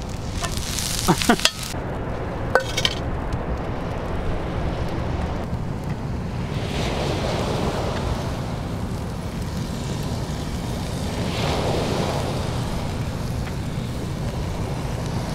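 Fried rice sizzling steadily in a hot cast-iron skillet, growing louder twice as sauce is spooned over it. A few handling knocks come near the start.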